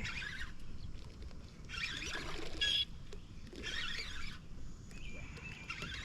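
Water splashing in several short bursts as a hooked largemouth bass, caught on a topwater frog, thrashes at the surface while it is winched in to the boat.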